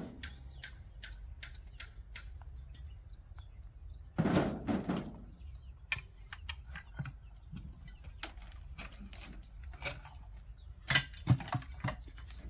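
A steady high chirring of crickets, with scattered light clicks and knocks and a louder clatter about four seconds in and again near the end.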